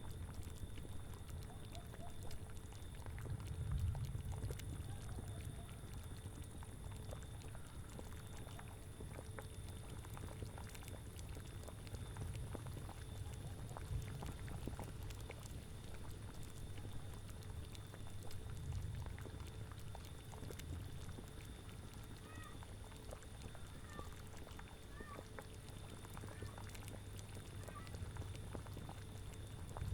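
Designed witch-lair ambience: a cauldron bubbling with scattered pops and crackles over low gusts of wind that swell and fade several times. Short, faint animal calls come in a few times near the end.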